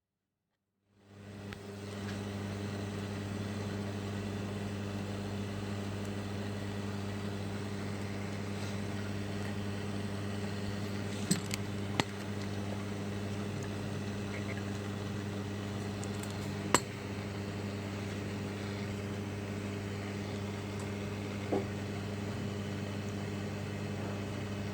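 Steady electrical hum with a hiss from running repair-bench equipment, starting about a second in. A few sharp clicks of tools on the work, about four in all.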